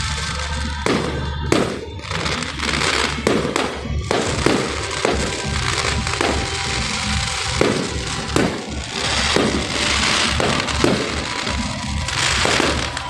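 Aerial fireworks bursting in quick succession: a string of sharp bangs, with spells of crackling between them.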